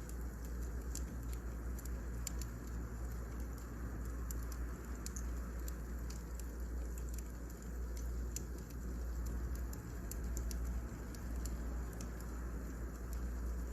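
Wood fire crackling: scattered sharp pops and ticks over a steady low rumble and soft hiss.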